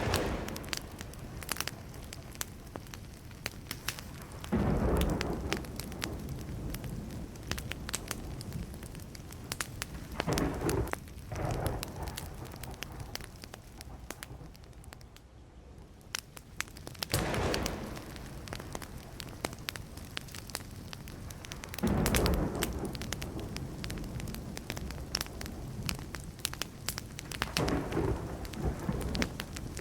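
Burning wood crackling and popping in a campfire, with distant thunder rumbling in low swells five times.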